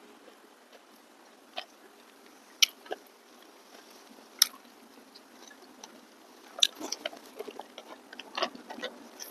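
Close-up chewing and mouth sounds of someone eating rice and curry: a few sharp, scattered clicks at first, then a busier run of wet lip-smacks and chewing clicks through the last third.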